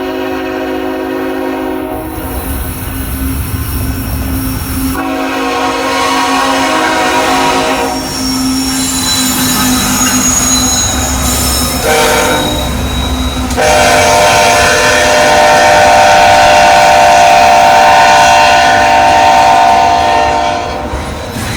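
Locomotive air horn sounding the grade-crossing pattern: long, long, short, long, the last blast held about seven seconds. Underneath, a passing train's wheels clatter and squeal on the rails.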